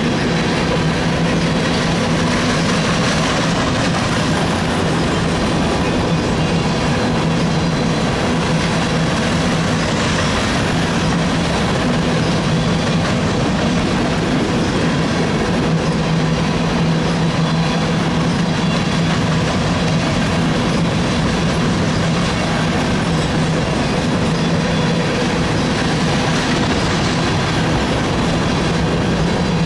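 A freight train of covered hopper cars rolling past: steel wheels running on the rails, loud and steady, with a constant low hum underneath.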